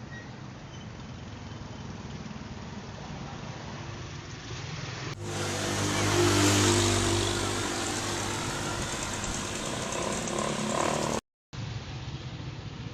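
Motor vehicle engines in successive clips. A faint rising engine sound comes first. About five seconds in, a cut brings a loud engine with a steady pitched note that peaks and then eases off as the vehicle passes. A short dropout near the end leads into another engine clip.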